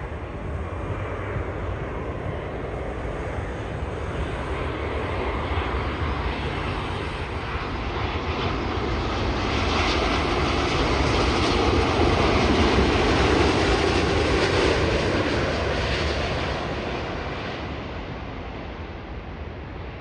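A jet airliner passing, its engine roar building steadily, loudest a little past the middle, then fading away.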